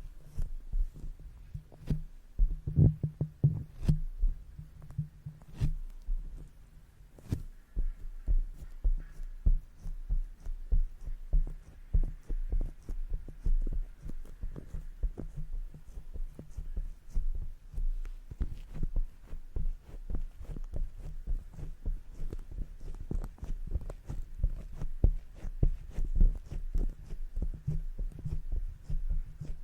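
Makeup brush brushing and tapping against the microphone: rapid, irregular, soft low thumps with faint clicks and scratches over them.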